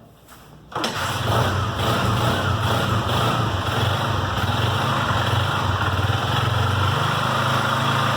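Honda CG 125 Fan's single-cylinder four-stroke engine kick-started, catching suddenly about a second in and then idling steadily. The engine carries a slight internal noise that the mechanic thinks comes from the camshaft gear, though he is not yet sure.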